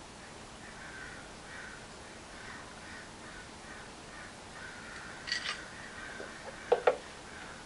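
Faint, repeated bird calls, with a short clink about five seconds in and two sharp knocks near the end.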